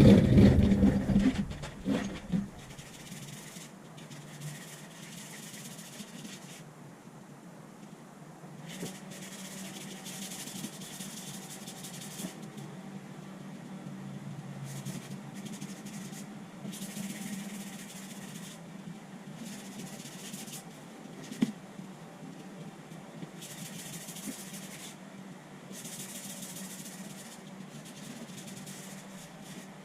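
Aerosol spray can spraying in repeated passes of one to three seconds, a hiss with short gaps between. Before the spraying there are a few loud knocks and handling sounds.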